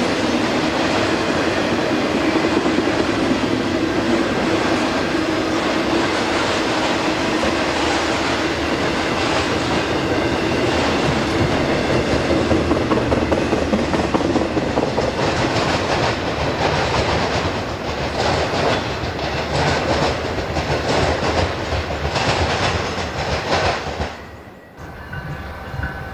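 Freight train rolling past, its cars clattering steadily over the rail joints; the noise drops away sharply near the end.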